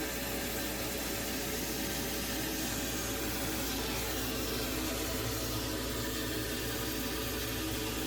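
Vacuum running steadily, sucking leaked water out of a boat's bilge.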